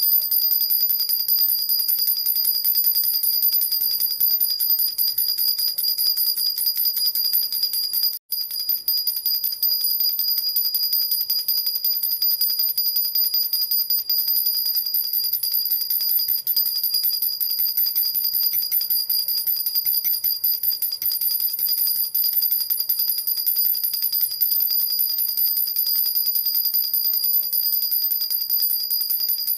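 Silver jhunjhuna, a baby rattle with small bells, shaken without pause: a fast, steady, high-pitched jingling, broken off for a moment about eight seconds in.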